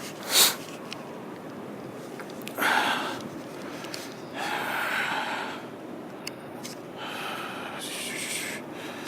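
Heavy breathing close to the microphone: three long, hissy breaths, each about a second, over a steady background hiss. A single sharp knock comes about half a second in, the loudest sound here.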